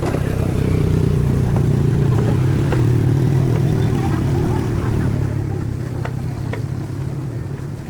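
An engine running steadily with a low hum that grows louder over the first second and fades toward the end.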